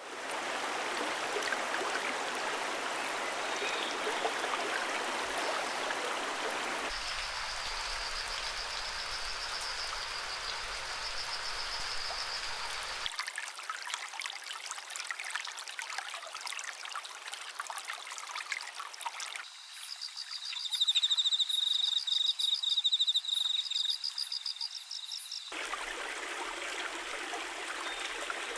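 Running stream water, a steady rushing flow, in several pieces joined with abrupt changes. A high trilling call repeats over the water from about 7 to 13 seconds in, and louder high trilling calls sound from about 20 to 25 seconds in.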